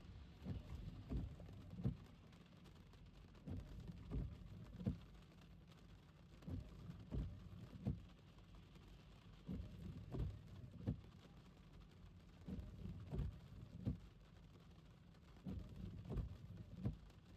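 Electric car driving in the rain, heard from inside: a quiet low road rumble with groups of soft low thumps about every three seconds.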